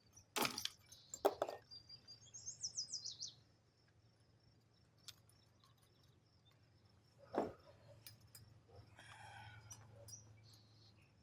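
A few short rustling handling noises in the first second and a half, then a songbird's quick series of high chirps falling in pitch. A single knock comes later, and a faint steady low hum runs beneath.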